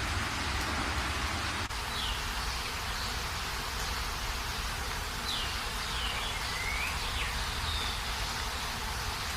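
Steady rain, heard as an even hiss, with a brief break in the sound about two seconds in where the recording changes. After it come faint, scattered small bird chirps, short notes falling in pitch, over the rain.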